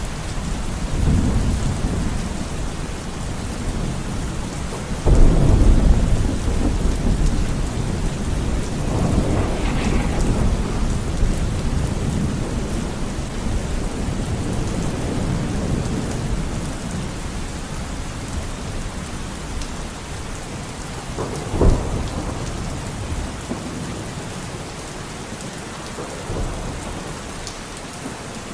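Steady rain with rolling thunder: a loud rumble breaks in suddenly about five seconds in, another roll builds near ten seconds, and a sharp crack comes a little past twenty seconds before the thunder dies away under the rain.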